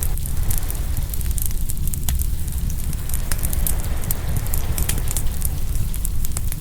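Open wood fire crackling, with frequent sharp, irregular pops over a steady low rumble.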